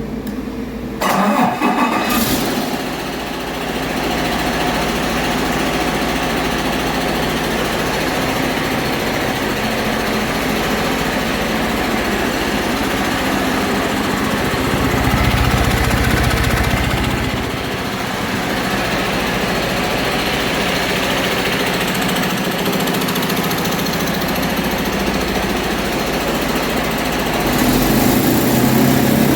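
Detroit Diesel DD15 inline-six truck diesel starting about a second in, then running steadily on test. It runs louder for a couple of seconds midway and again near the end.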